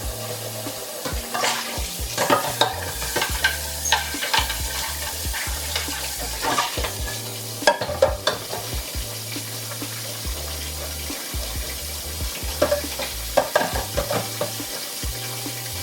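Kitchen cleaning sounds: a steady hiss with scattered clinks and clatters of items being handled, in clusters, the loudest around the middle.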